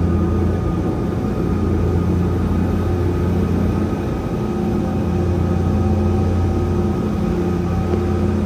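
Speedboat engine running at a steady pitch, a low even hum with a few higher tones over it.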